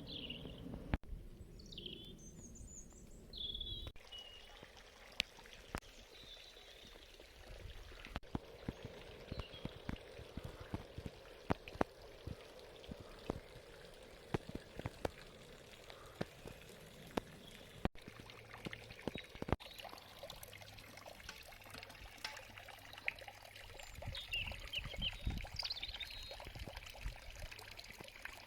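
Faint outdoor ambience: water trickling, with many small scattered clicks, and bird chirps near the start and again about 24 seconds in.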